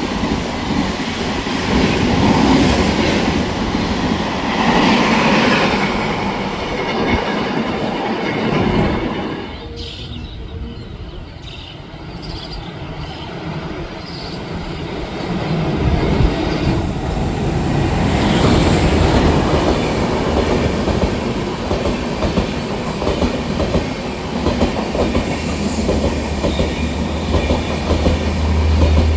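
Express train passing at speed, its wheels clattering over the rail joints. The noise drops off sharply about ten seconds in, then builds again a few seconds later.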